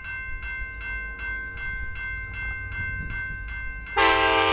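Level crossing bells ring at about three strokes a second over a steady high squeal, which is taken for the rails. About four seconds in, a train's multi-note air horn starts loudly and holds.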